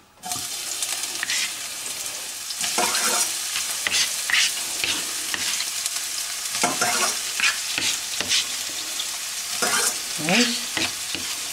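Chopped onion frying in hot oil in a frying pan, sizzling steadily; the sizzle starts suddenly as the onion goes into the oil.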